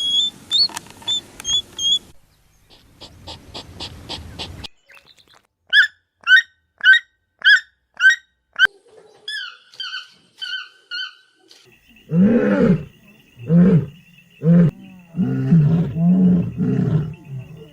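A string of animal calls. First come short high chirps, then about eight evenly spaced high calls and a few shorter ones. About twelve seconds in, a series of loud, deep calls from a large animal begins.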